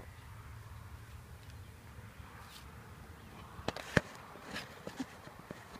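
Wooden beehive boxes being separated with a hive tool: a few sharp cracks and knocks, the loudest about four seconds in, over a faint hum of honey bees.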